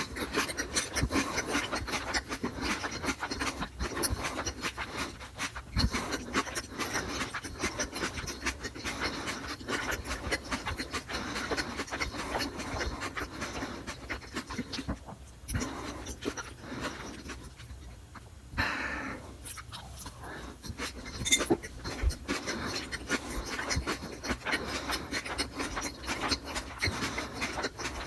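Close-miked eating sounds: dense, irregular chewing smacks and wet mouth clicks, with breathing between bites.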